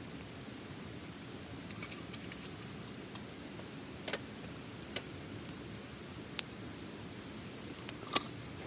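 Small wood fire in a colander fire stand burning with a steady low rush, broken by a few sharp crackles and pops, a cluster of them near the end.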